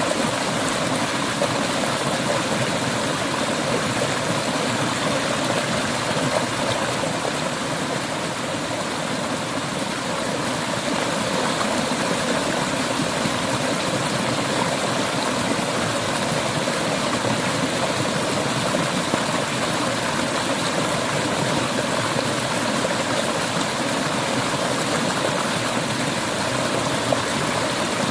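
Clear mountain river flowing over rocks: a steady, unbroken rushing of water.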